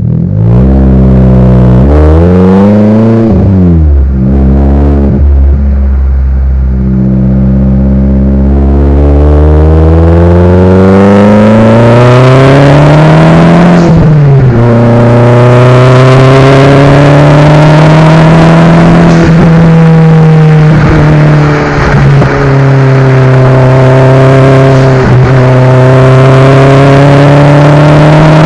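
Daihatsu Copen L880K's 660 cc turbocharged four-cylinder engine and exhaust, very loud, under acceleration uphill. The revs rise and fall briefly near the start, then climb steadily for about ten seconds. The pitch drops suddenly at a gear change just past halfway, and the engine then holds a nearly steady speed at cruise.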